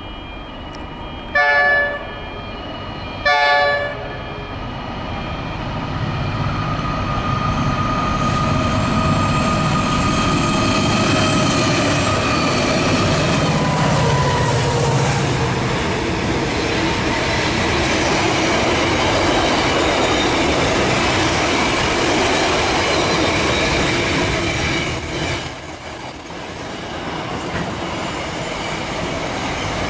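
Diesel freight locomotive sounds two short horn blasts about two seconds apart. Its engine then grows louder as it approaches and drops in pitch as it passes near the middle. Container wagons follow, rolling by with steady wheel and rail clatter.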